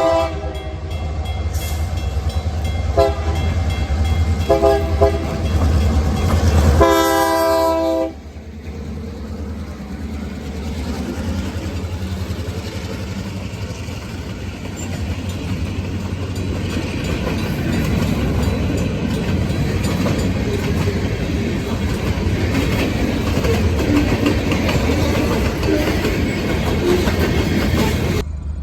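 Train horn sounding a few short blasts and then a longer one about seven seconds in, over a heavy low engine rumble. The train then rolls past with a steady rumble and clatter of wheels on the rails.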